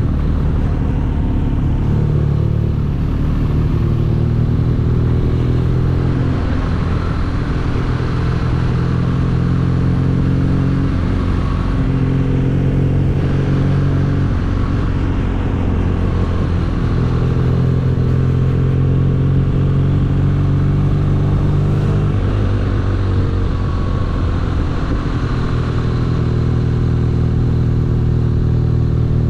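BMW R nineT's air/oil-cooled boxer-twin engine running while the motorcycle is ridden, a steady engine note with several small shifts in pitch as the throttle changes.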